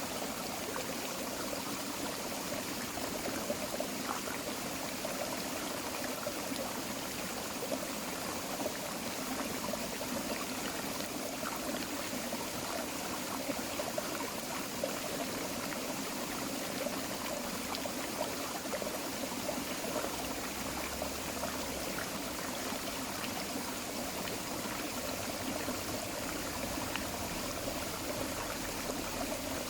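Tropical forest creek flowing steadily: a constant rush of water with short splashes and trickles scattered through it.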